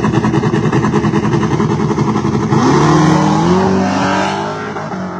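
Car engine running loud with a rapid, rough pulse, then revving up in pitch as it accelerates and fading near the end.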